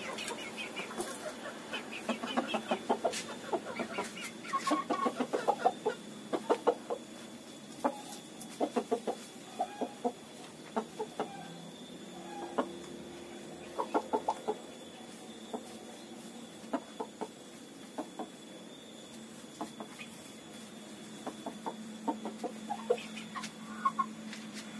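Chickens clucking in short, scattered calls, with many sharp taps and clicks between them.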